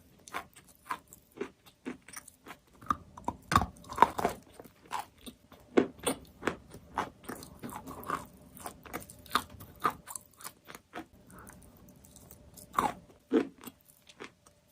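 Chalk being bitten and chewed: a run of sharp, dry crunches, a few each second, with a quieter stretch about eleven seconds in before two loud crunches near the end.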